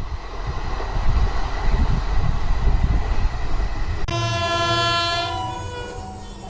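Express train passing at high speed, a heavy rumble and rush of noise. About four seconds in it cuts off abruptly, replaced by a steady held tone made of many pitches that fades away.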